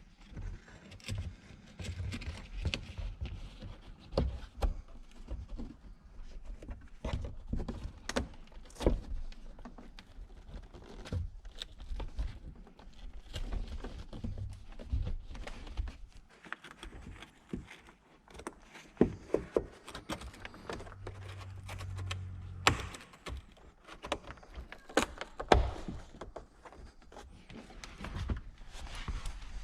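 Irregular knocks, clicks and thunks of tools and car interior parts being handled and fitted, with short rattles between them.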